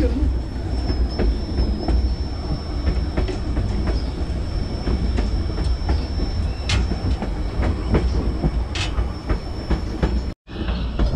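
Narrow-gauge passenger train car rolling along the track: a steady low rumble of wheels on rails with scattered clicks and a thin, steady high whine. The sound cuts out for a moment near the end.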